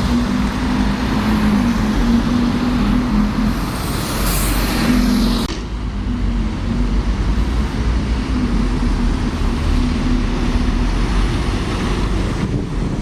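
Street traffic with a vehicle engine running, a steady hum under the noise. A hiss rises over it about three and a half seconds in and cuts off suddenly about two seconds later.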